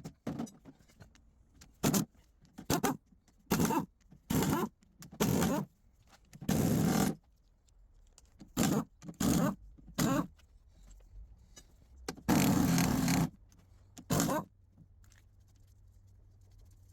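A run of about a dozen short scraping and rubbing noises with a few knocks, in uneven bursts of up to a second, from metal gearbox parts being handled during transmission repair work.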